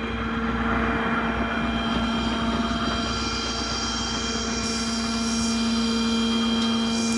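Ford F-750 tow truck's Power Stroke diesel engine running steadily while its hydraulic tow gear is worked: an even drone with a constant hum.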